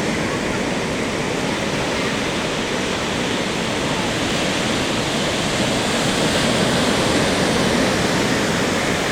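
Ocean surf washing onto the beach: a steady rush of breaking waves that swells slightly a few seconds before the end.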